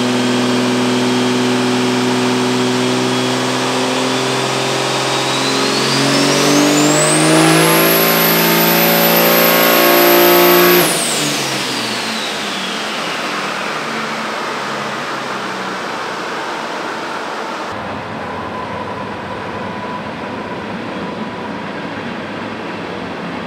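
Cummins 6.7-litre inline-six diesel with a large 72 mm single turbocharger under full throttle on a chassis dyno. The engine climbs and the turbo whistle rises to a high, steady pitch. About eleven seconds in the throttle is cut suddenly, and the turbo spools down with a long falling whistle under the steadier run-down noise.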